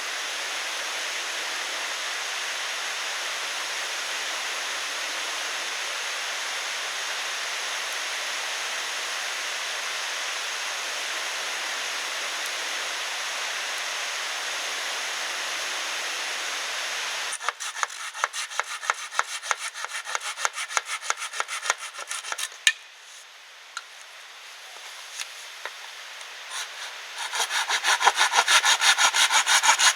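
A steady rushing noise, then a handsaw cutting wood in quick back-and-forth strokes from a little past the middle. The strokes ease off briefly and come back louder and faster near the end.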